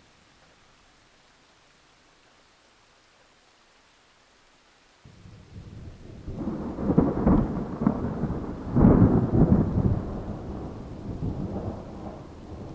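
Thunderstorm: a faint hiss, then about five seconds in thunder starts abruptly and rolls in two big rumbling peaks over rain before fading.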